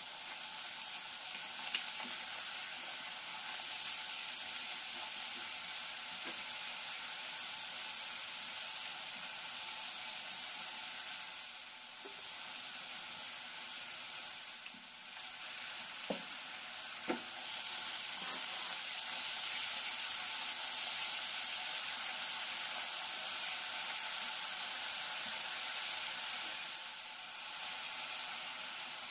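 Ginger-garlic paste and whole dried red chillies sizzling steadily in hot oil in a nonstick wok, stirred with a wooden spatula, with a few light knocks scattered through.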